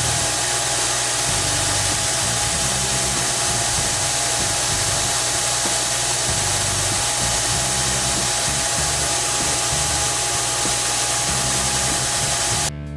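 Electric power tool motor running steadily with a constant whine, then cutting off suddenly near the end.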